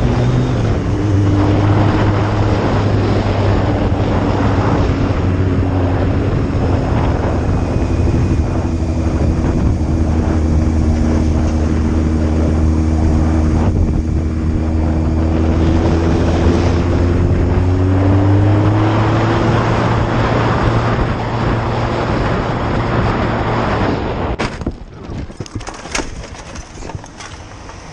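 A vehicle engine running steadily at cruising speed, with road and wind noise, its note drifting slowly up and down. About 24 seconds in the engine sound drops away, and several sharp knocks and clicks follow.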